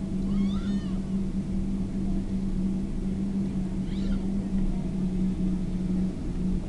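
Boeing 777-200 cabin noise while taxiing: a steady low drone with a constant hum. Two brief, wavering high squeaks come through, about half a second in and again about four seconds in.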